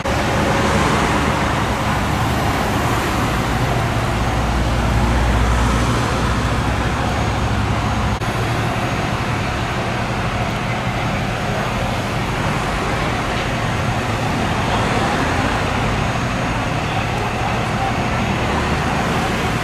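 Steady rumble of a large vehicle engine running, with street traffic noise over it; the low rumble swells for a couple of seconds about four seconds in.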